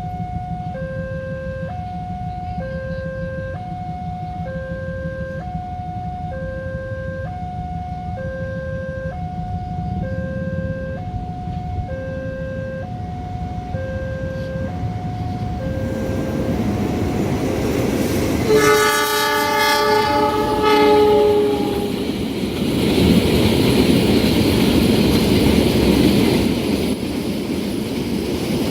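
Level-crossing warning alarm sounding an alternating two-tone ding-dong about once a second, then a train's horn giving one long chord blast about two-thirds of the way through, followed by the rushing rumble of the train passing the crossing.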